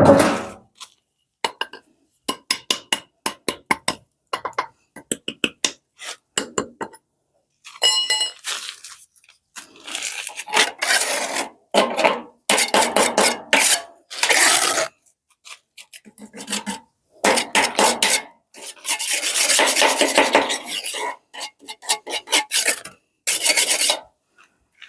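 Repeated scraping and rasping of a hand tool against a hard surface: quick short strokes at first, then longer scrapes about a second each from around eight seconds in.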